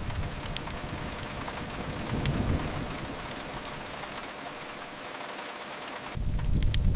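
Steady rain hissing, under a deep low rumble that swells about two seconds in, dies away, and comes back abruptly near the end. A few sharp crackling pops of a wood fire sound near the start and again at the end.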